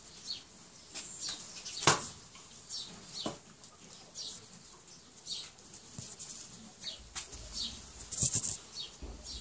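Small birds chirping over and over, short high chirps a couple of times a second, with a few sharp knocks about two seconds in, about three seconds in and near the end.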